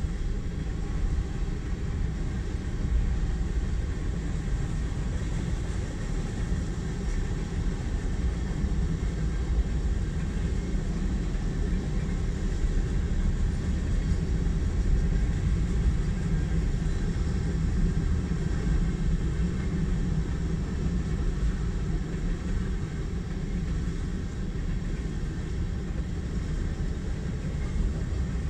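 Freight train cars rolling through a grade crossing, a steady low rumble that holds at an even level throughout, heard from inside a car waiting at the crossing.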